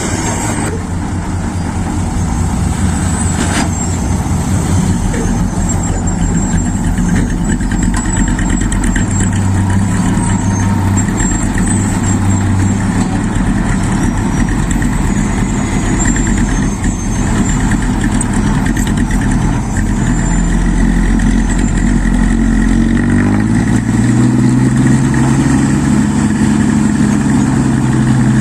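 Mitsubishi Fuso dump truck's diesel engine running loaded with rocky soil. It runs steadily, then revs up about two-thirds of the way through and holds the higher pitch.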